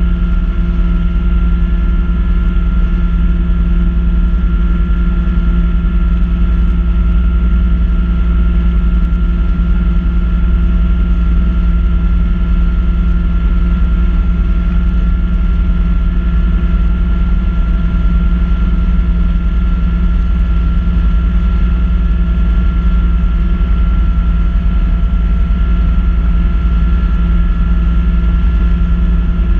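Kubota B2650 compact tractor's three-cylinder diesel engine running at a steady speed while powering a front-mount snow blower, a constant drone with a thin high whine over it.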